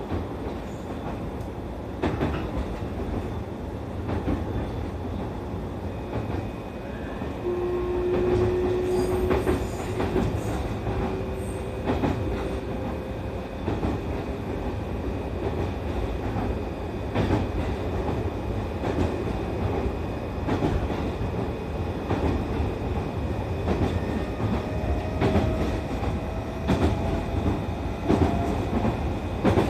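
Running noise aboard an E531 series electric train: a steady low rumble, with the wheels clicking over rail joints at irregular intervals. A faint whine sits underneath and rises in pitch over the last few seconds.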